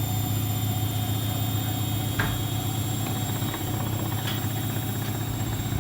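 Bosch Series 2 washing machine spinning at about 1000 RPM with bottles in the drum: a steady hum, with a few faint knocks in the middle.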